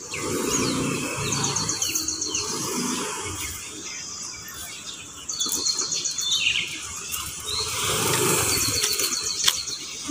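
A small bird sings the same short, rapid trilled phrase three times, each ending in a falling note. Under it runs the low running noise of a motor scooter pulling out, which grows near the end.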